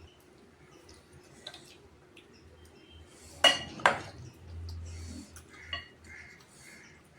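Cutlery against dishes during a meal: two sharp ringing clinks about half a second apart near the middle, with fainter small clicks around them.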